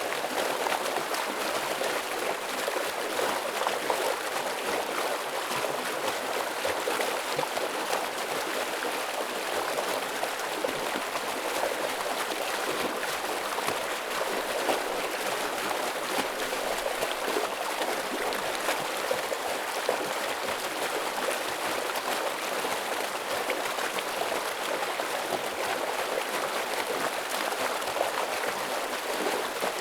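Forest stream running heavily over rocks: a steady, unbroken rush of water.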